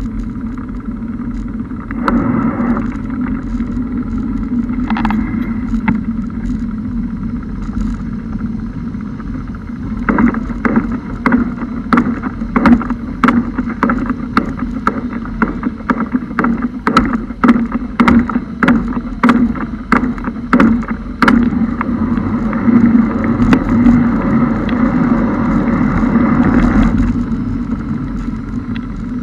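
Car driving through floodwater: a steady engine and road hum with water washing against the car, a run of sharp, irregular taps through the middle and a louder rush of water near the end.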